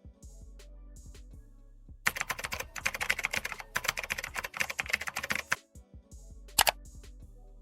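Typing on a computer keyboard: a few scattered key clicks, then a dense run of rapid keystrokes lasting about three and a half seconds, and a single louder click near the end, over faint background music.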